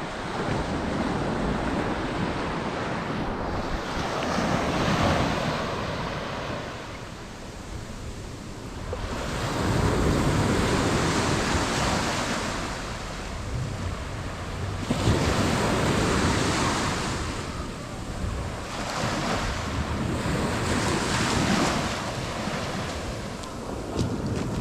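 Ocean waves breaking and washing onto the beach, the surf rising and falling every few seconds, with wind buffeting the microphone.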